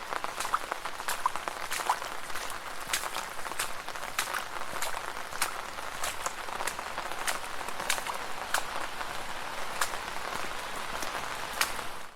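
Footsteps splashing through shallow puddles at a steady walking pace, about three steps every two seconds, over a steady wet hiss.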